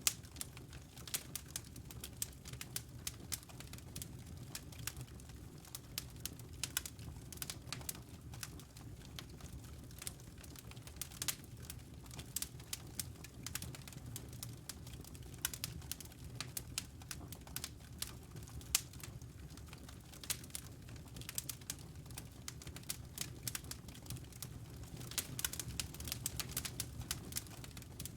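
Fireplace fire crackling, with frequent irregular pops and snaps over a steady low rumble of the flames.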